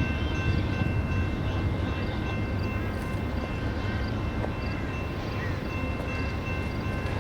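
Double-stack container freight train passing: a steady low rumble of the train rolling by, with a few faint steady high tones over it.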